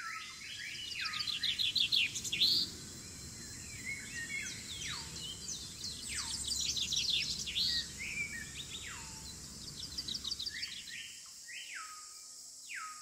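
Several birds singing at once: fast chirping trills and repeated down-slurred whistles, over a low steady background noise.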